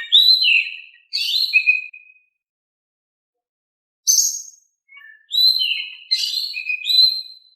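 Oriental magpie-robin singing in short phrases of clear whistled notes that slide between high and lower pitches. A brief harsh, rasping note comes about four seconds in, and the whistling phrases resume a second later.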